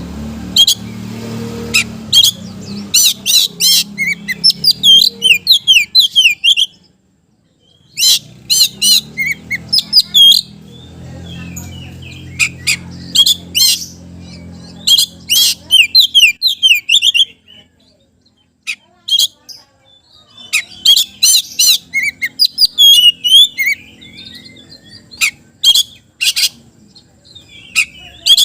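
Oriental magpie-robin (kacer) singing in rapid, loud bursts of varied chirps, whistles and sharp notes, with short pauses about seven and eighteen seconds in.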